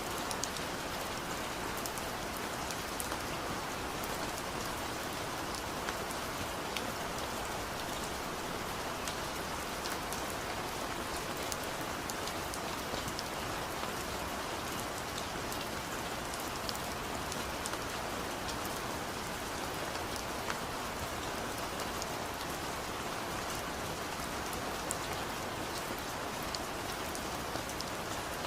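Steady rain falling, with many small drop taps scattered through it.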